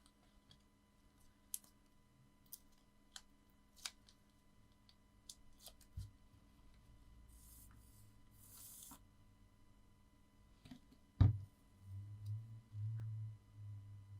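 Paper and card handled on a craft tabletop: scattered small clicks and taps, a brief papery rustle in the middle, a sharp knock about eleven seconds in, then a few low thuds as pieces are pressed down. A faint steady electrical hum sits underneath.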